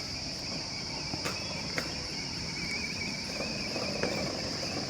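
Crickets chirring as a steady high-pitched drone, with a few faint clicks about a second in.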